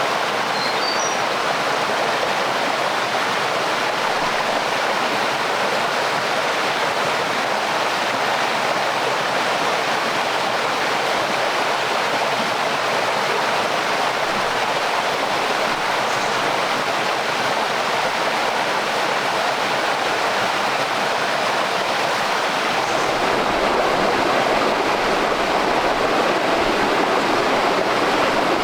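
Stream water rushing steadily over rocks. It gets a little louder, with more low rumble, about three-quarters of the way through.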